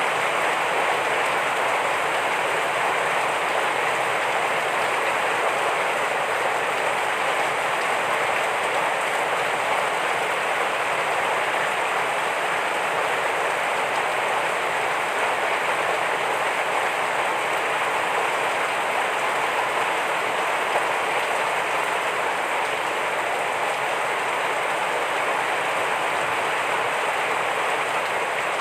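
Heavy rain falling steadily, an even hiss of countless drops with no let-up.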